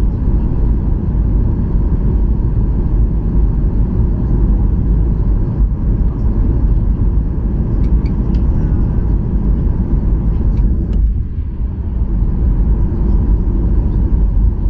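Steady low rumble of a Boeing 737-800 passenger cabin: engine and airflow noise, with a few faint clicks in the middle and a slight brief drop in level about eleven seconds in.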